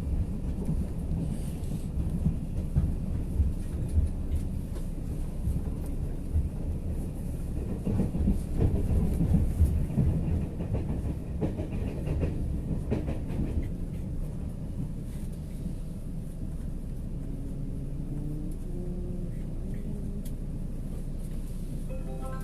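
Running noise of a Taiwan Railways express train heard from inside the carriage: a steady low rumble with irregular clicks of the wheels over the track. The rumble grows quieter about two-thirds of the way through as the train approaches a station.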